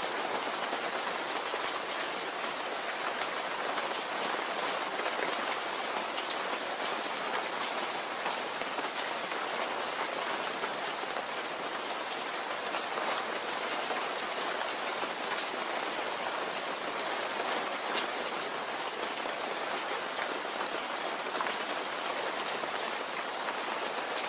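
Steady rain falling and pattering on a surface, a constant even hiss with scattered individual drop ticks.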